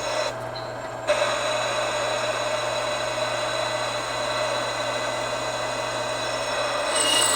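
Power drill running with a Rodman Reaper drill bit cutting into a thick cast-iron Chevrolet 1-ton front brake rotor. It is a steady whine mixed with the grinding of the cut, jumping louder about a second in as the bit bites, with a brief sharper, higher sound near the end.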